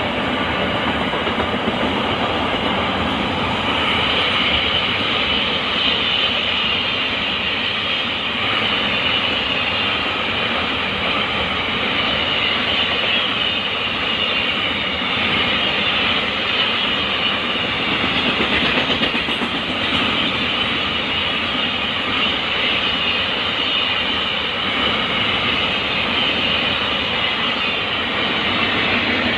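Double-stack container freight train rolling past: a steady, loud noise of wagon wheels running on the rails, with a higher ringing edge coming in about four seconds in.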